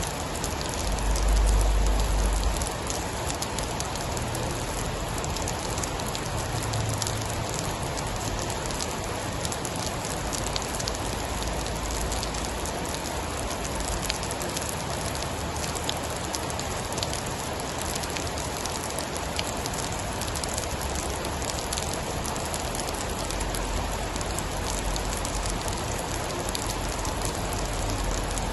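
Steady heavy rain with fine scattered ticks of drops, and a low rumble swelling about a second in and again near the end.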